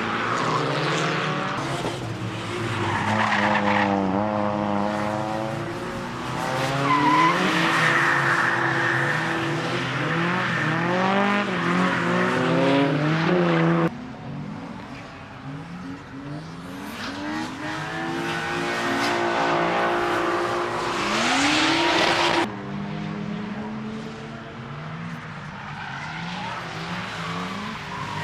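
Drift cars at a race track with engines revving hard and the pitch climbing and falling as they slide through the corners, with tyre squeal. The sound changes abruptly twice, about halfway through and again about three quarters of the way in.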